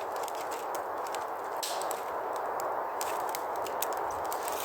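Wood campfire crackling, with scattered sharp pops and snaps over a steady hiss.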